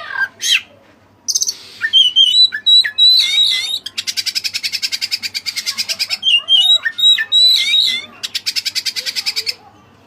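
Oriental magpie-robin (kacer) singing: loud, varied whistled notes, broken by two long, fast rattling trills, one about four seconds in and another near the end.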